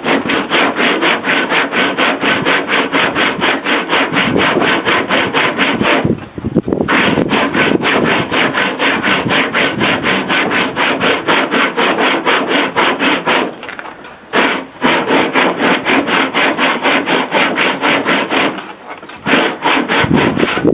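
A hand tool rubbed rapidly back and forth on wood, about five strokes a second, in runs broken by short pauses about six, fourteen and nineteen seconds in.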